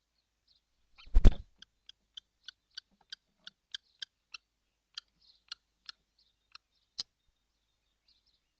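A surveillance-style camera switching from night to day mode: one loud clunk about a second in as the infrared-cut filter flips, then a run of short, sharp ticks, about two or three a second, for the next six seconds.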